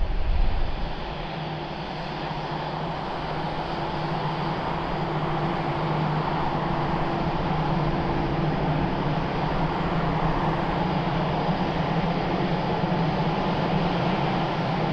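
Jet engines of an Airbus A330-900 airliner in flight, Rolls-Royce Trent 7000 turbofans, a steady rushing noise with a low hum that grows slowly louder.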